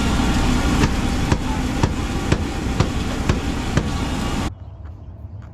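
Steady vehicle running noise with a low rumble and a regular sharp clicking about twice a second. It cuts off abruptly a little over four seconds in, leaving a much quieter background with a few faint clicks.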